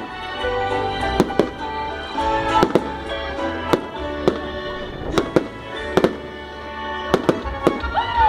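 Fireworks popping and cracking at irregular intervals, a dozen or more sharp bangs, over instrumental music.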